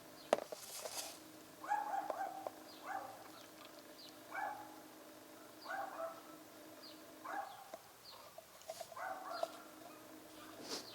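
Repeated short animal calls, one every second or two, over a steady low hum, with a sharp click near the start.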